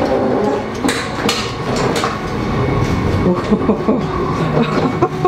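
Steady hum and rumble of the standing sleeper train, with a few sharp clicks as the power-operated toilet door is opened by its push button.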